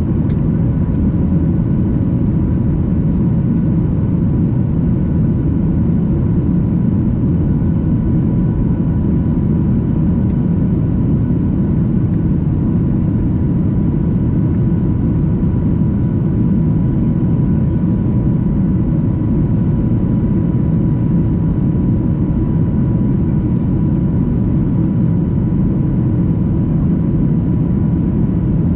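Steady engine drone and rushing airflow inside the cabin of a Boeing 737-800 climbing after takeoff, with thin steady whining tones above the low noise.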